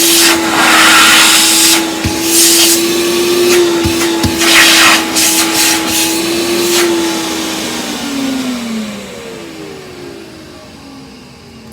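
Hoover vacuum cleaner's motor running with a steady hum, with several loud rushes of air through the hose. About eight seconds in its pitch slides down and the sound fades as the motor winds down.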